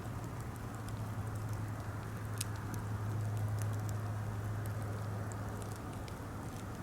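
Birch-wood campfire crackling, with scattered sharp pops, the loudest about two and a half seconds in, over a steady low hum.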